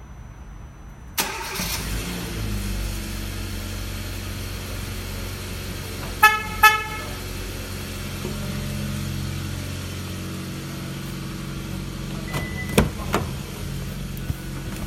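Hyundai Kona engine started by a remote-start system about a second in, then idling steadily. About six seconds in the car horn gives two short chirps. Near the end a short beep and a couple of sharp clicks are heard.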